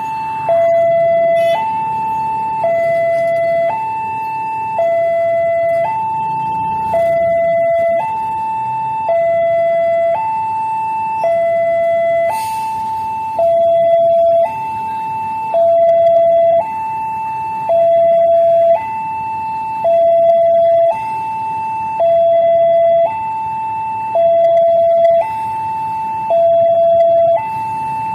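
Railway level-crossing warning alarm sounding a two-tone electronic signal, alternating between a higher and a lower tone about once a second each, the warning that a train is approaching the crossing.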